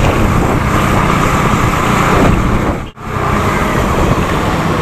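Wind rushing over the microphone of a moving motorcycle, with its engine running underneath. The sound cuts out for a moment about three seconds in.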